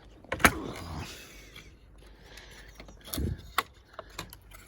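A few sharp clicks and knocks of gear being handled, the loudest about half a second in and two more near three seconds in, with a faint hiss between them.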